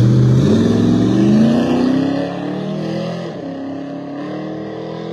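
A daily-driver drag car's engine launching and accelerating hard down the strip, its pitch climbing for about two seconds, then quieter and steadier as it pulls away.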